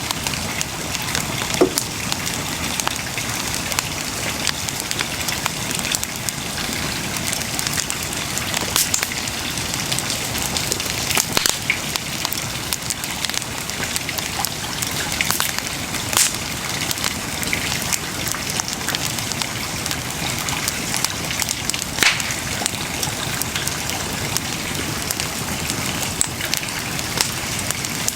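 Wood bonfire burning with a steady hiss and constant fine crackling, broken by a few sharper pops every few seconds.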